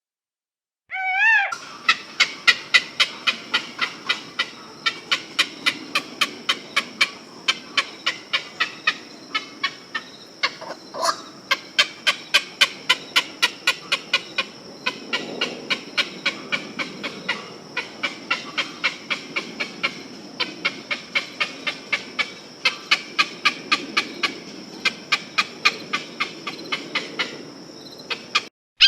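A bird repeating a short, sharp call over and over, about two to three times a second, after one brief wavering call at the start.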